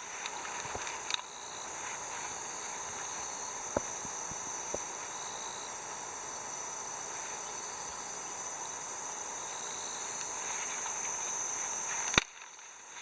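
Summer insects droning in a steady, high-pitched chorus, with a few faint clicks. A sharp click near the end, after which the drone drops away.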